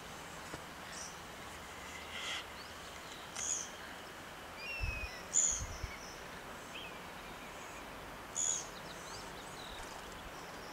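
Wild birds chirping in short calls every second or few over a steady background hiss, with a couple of brief low bumps near the middle.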